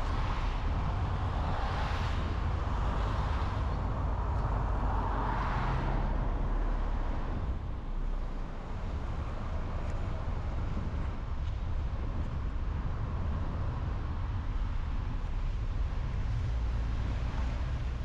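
Car driving on a highway: a steady low rumble of road and tyre noise, with a few swelling whooshes during the first six seconds.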